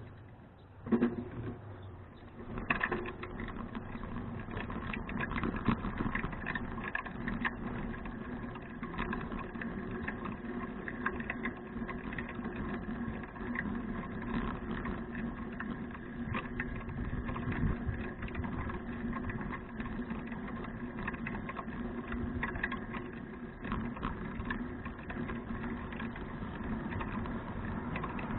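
2012 Fuji Touring bicycle being ridden, its tyres and drivetrain running steadily with rapid clicking. There is a sharp clack about a second in.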